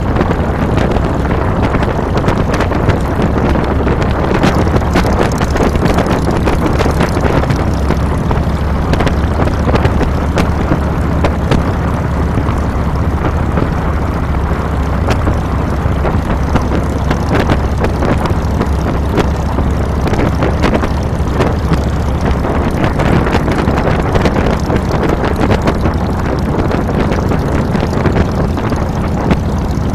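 Harley-Davidson Fat Boy's Twin Cam 96 V-twin engine running steadily under way, with wind rushing over the handlebar-mounted microphone.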